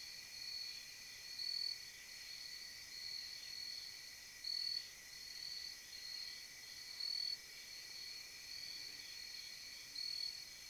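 Crickets and other night insects chirping in woodland: a steady high-pitched trill made of several voices, with short chirps repeating about twice a second and now and then swelling louder.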